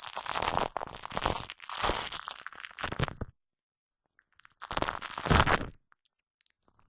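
Shaving foam squished and rubbed right against a microphone, giving close, crackly, sticky squelching. Two long stretches of crackling, then after a short pause one shorter burst.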